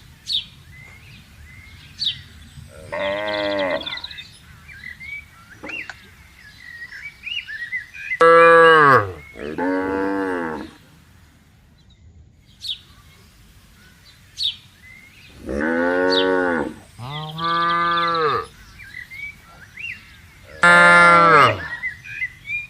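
Cattle mooing: about six long, deep moos, several in close pairs, from cows in a grazing herd.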